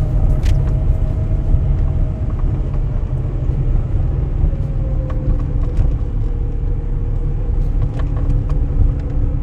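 A car driving slowly: a steady low road rumble with a faint engine hum that shifts slightly in pitch about halfway through.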